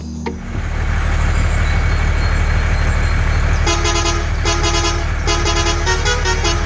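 Tractor engine running steadily, with a vehicle horn tooting in four short blasts in the second half.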